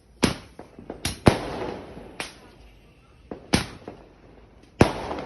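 Firecrackers going off in a string of about six separate sharp bangs at irregular intervals. The loudest comes about a second and a half in and is followed by a rolling echo.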